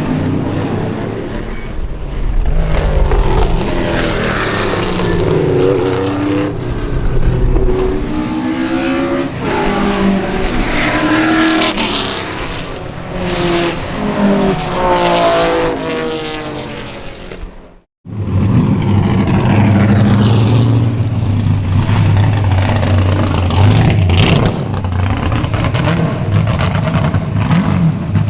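Pontiac 496 big-block V8 race engine at full throttle, pitch climbing and dropping again and again through gear changes as the car passes. About 18 seconds in the sound cuts off abruptly, then a steadier, lower engine note continues.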